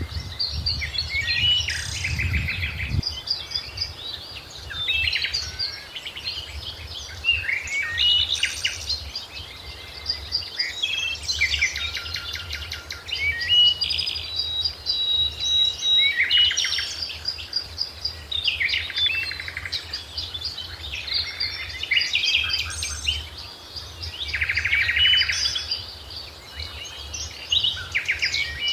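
Several birds singing and calling together: many chirps, rapid trills and short whistled notes overlapping throughout, over a faint low rumble.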